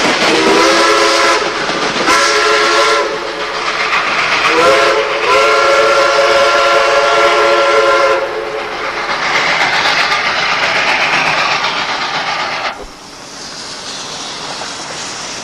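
Steam locomotive whistle sounding two short blasts and one long one, each sliding up to pitch as it opens. The train's running noise follows, then drops away about 13 seconds in.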